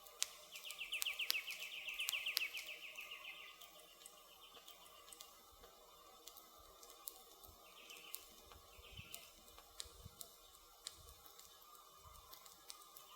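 Campfire crackling, with sharp pops of burning wood scattered throughout. A high, rapid trill is the loudest sound for about three seconds shortly after the start, and two brief chirps follow past the middle, over quiet woodland ambience.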